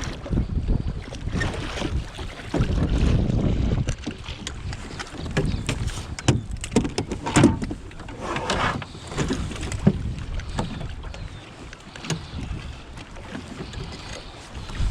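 Wind buffeting a camera microphone in a canoe on open water, with water lapping at the hull and many short knocks and clicks scattered throughout.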